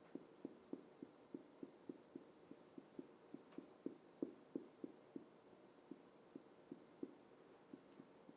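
Faint, quick colouring strokes of a black pen on paper, about three or four short ticks a second.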